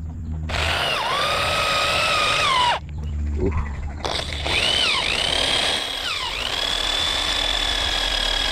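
Electric hand drill boring into excavator step steel with a larger bit, enlarging a pilot hole. It runs in two long bursts, the motor whine dipping in pitch as the bit bites and then recovering.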